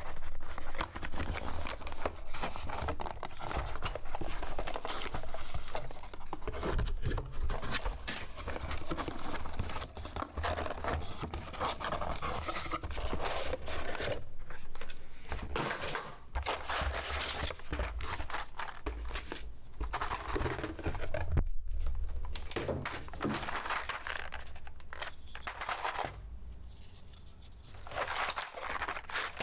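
Keyboard packaging being unpacked by hand: paper and plastic wrapping crinkling, rustling and tearing, with irregular handling noises.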